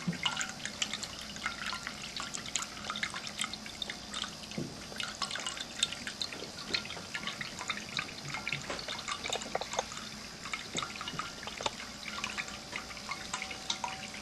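Water from a ceramic tabletop fountain splashing and dripping steadily into its basin, with many small irregular plinks.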